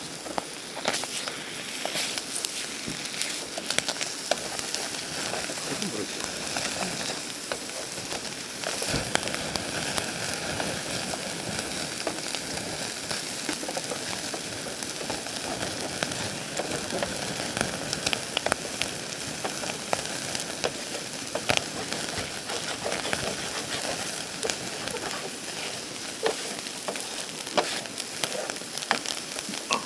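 Food frying in a hot pan: a steady sizzle with frequent small pops and crackles.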